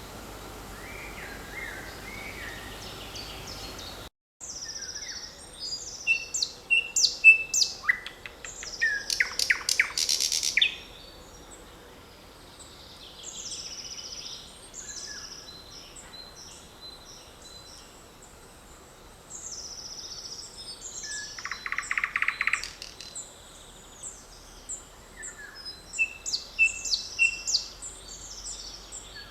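Several songbirds singing together in woodland: many short, high chirps and whistles, with louder bursts of rapid notes and a repeated three-note phrase. About four seconds in, the sound briefly drops out.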